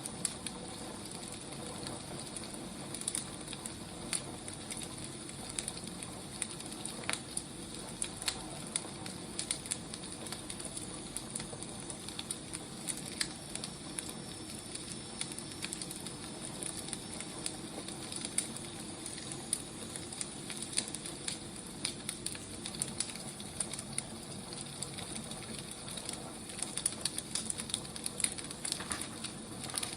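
Burning firewood crackling: a steady hiss with irregular small pops and snaps.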